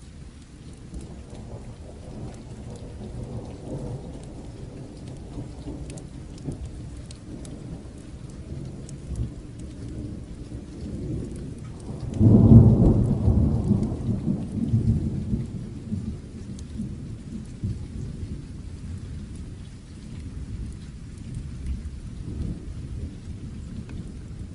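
Steady rain with thunder rumbling under it. About halfway through, a louder thunder peal swells up suddenly and rolls away over several seconds.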